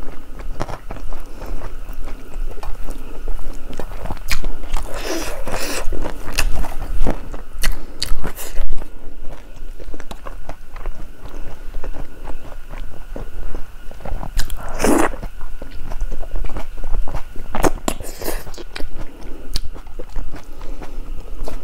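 Chewing and wet mouth sounds of eating rice by hand, with fingers mixing rice on a steel plate. A few louder mouth sounds stand out about five and fifteen seconds in.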